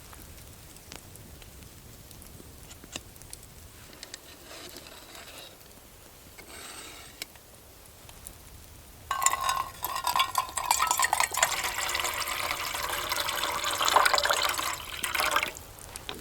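Loud crackling sizzle from a hot pan over a campfire starts suddenly about nine seconds in, as food or liquid goes into it. The sizzle lasts about six seconds, then drops back to quieter frying. Before it there is only a faint background with a few light ticks.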